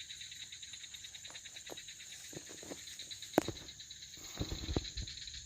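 Night insects chirring steadily in a fast pulsing rhythm, with a sharp knock about halfway through and a few dull thuds shortly after.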